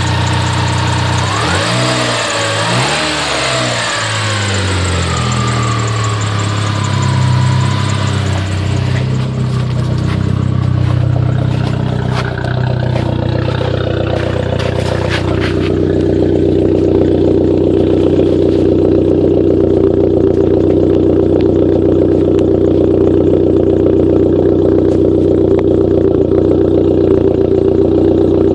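2004 Dodge Neon SRT-4's turbocharged 2.4-litre four-cylinder engine and exhaust, revved up and down in the first few seconds, with a few sharp pops about halfway through. After that it settles into a steady, slightly louder held note.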